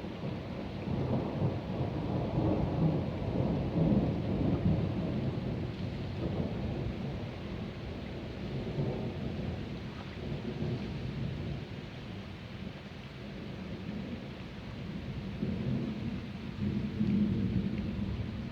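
Rolling thunder rumbling over steady rain, swelling in the first few seconds and again near the end.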